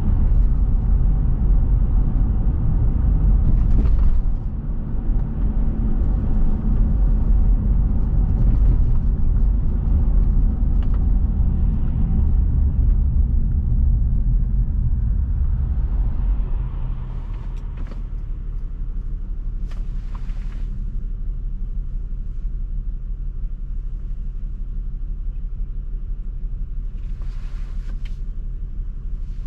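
Car driving on a road: a steady low rumble of engine and tyre noise that falls to a quieter level a little past halfway. A few faint brief hisses sound now and then.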